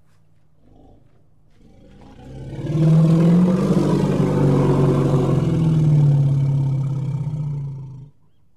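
One long, low-pitched animal call that swells in over about a second, holds for about five seconds, then cuts off suddenly.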